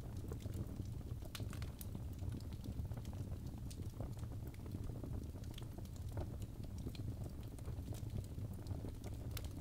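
Birch logs burning in a fireplace: a steady low rumble of flames with irregular sharp crackles and pops scattered throughout.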